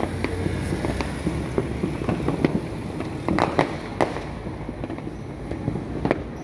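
Fireworks and firecrackers going off in irregular sharp pops and cracks, with a denser burst of cracks about three and a half seconds in, over a steady low rumble.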